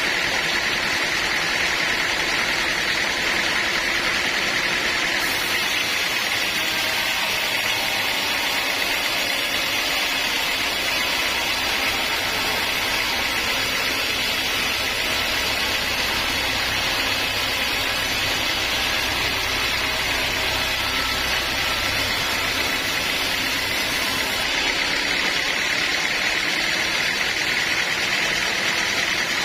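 Sawmill running steadily while sawing a teak log, a dense machine noise with a strong high band. About five seconds in, a brighter hiss and a low hum join the sound, and they fall away again about five seconds before the end.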